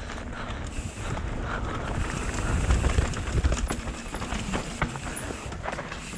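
Mountain bike rolling fast down a dirt trail: tyre rumble and wind buffeting the microphone, with scattered knocks and rattles from the bike over bumps.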